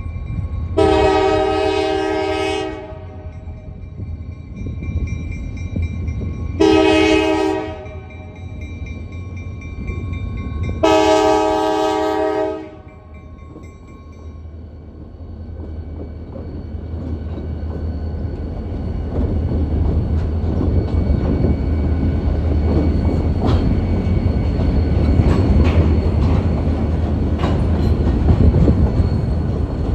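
Freight train led by EMD SD40-2R diesel locomotives sounding its horn three times, long, short, long, for a grade crossing. The locomotives then rumble past, and covered hopper cars roll by with growing wheel noise and sharp clicks over the rails.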